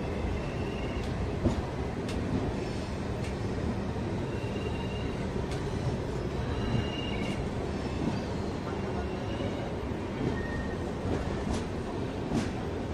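Passenger train running on the track: a steady rumble of wheels on rails, with scattered clicks and several brief high-pitched wheel squeals.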